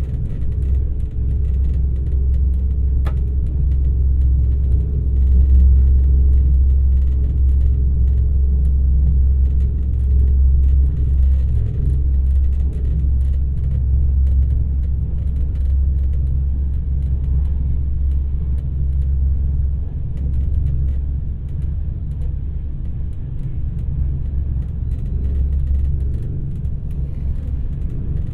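Alfa Pendular Class 4000 electric tilting train running, heard from inside the passenger car: a steady low rumble of the train on the rails, with a single sharp click about three seconds in.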